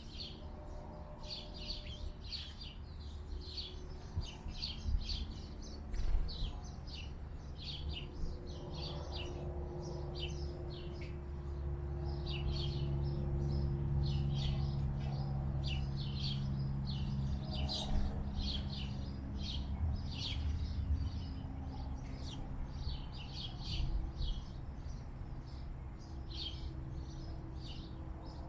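Small birds chirping in quick runs of short, high chirps, over and over. Underneath is a low steady hum that swells in the middle.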